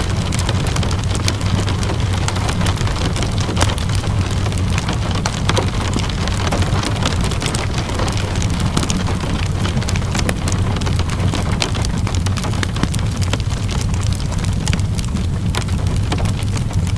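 Steady rain mixed with a crackling wood fire: an even hiss of rain over a low steady rumble, with many scattered sharp pops and clicks.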